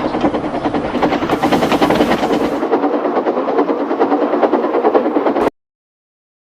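Train running with a fast, even clatter that cuts off suddenly about five and a half seconds in.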